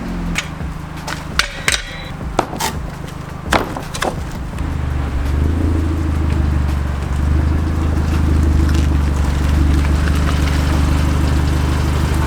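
Audi TT 2.0 TFSI four-cylinder turbo petrol engine on its standard exhaust, a steady low drone at constant revs that grows louder about four seconds in and holds. A few sharp knocks or clicks sound in the first few seconds.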